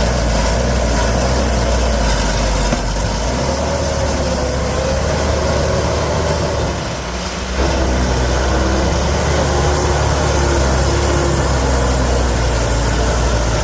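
Excavator's diesel engine running steadily, with a wavering whine over its low hum; the sound dips briefly about seven seconds in, then picks up again.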